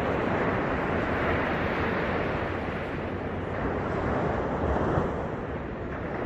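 Ocean surf breaking and washing up the beach, a steady rushing wash that swells about a second in and again near five seconds.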